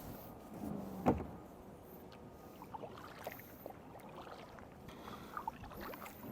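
Kayak on the water: one hollow knock on the hull about a second in, then small splashes and drips of water around the boat and paddle.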